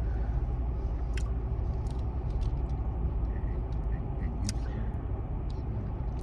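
Steady low rumble of a car heard from inside the cabin, with a few faint clicks and rustles scattered through it.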